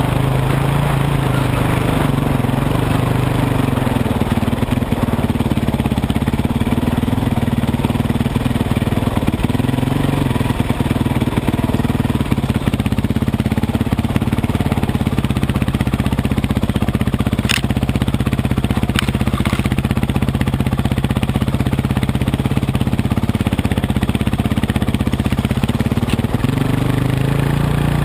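Dirt bike engine running steadily while being ridden, its pitch rising and falling a little with the throttle. A few sharp clicks about two-thirds of the way through.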